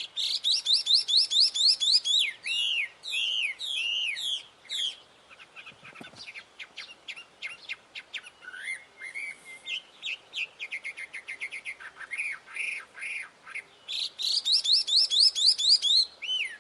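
A wambi songbird singing vigorously: fast runs of rising whistled notes, then phrases of down-swooping notes and quick chattering trills, with another burst of rapid rising notes near the end.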